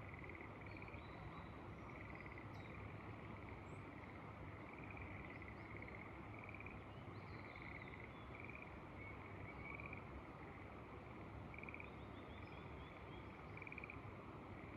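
A chorus of frogs calling, many short pulsed trills of about half a second each repeating and overlapping, with a few faint bird chirps above them.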